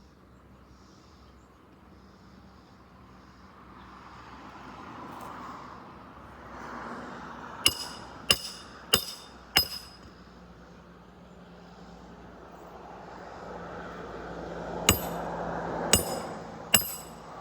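Hammer driving roofing nails through asphalt shingles: two sets of four sharp, ringing metallic strikes, the first set about eight seconds in and the second near the end, with a swelling rush of noise before each set.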